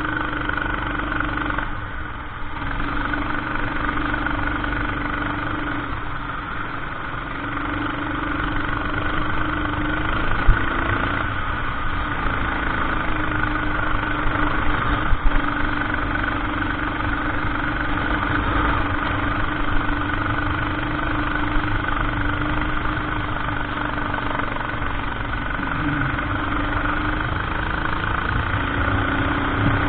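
Kart engine running continuously on track, its pitch rising and falling with the throttle through the corners.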